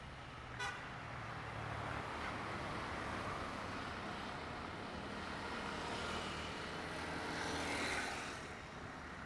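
Faint vehicle noise that slowly swells and fades as something passes, with one short horn toot just under a second in.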